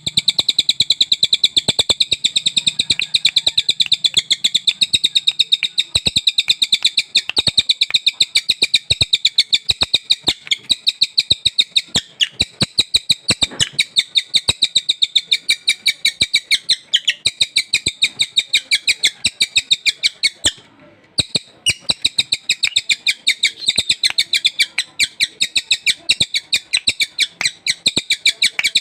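Sultan tit singing hard: a fast, unbroken run of loud, high chirping notes, several a second, with one short pause about two-thirds of the way through.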